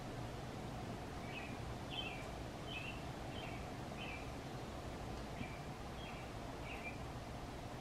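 A bird calling: a series of about eight short, high chirps, one roughly every two-thirds of a second, over a steady low background hum.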